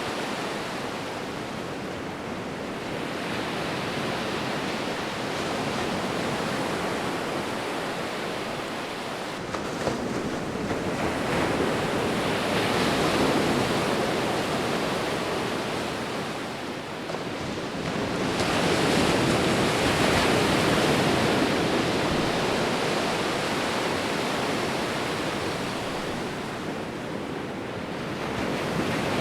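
Ocean waves breaking and washing in, a continuous rush of surf that swells and fades in slow surges, with two larger waves about halfway and two-thirds of the way through.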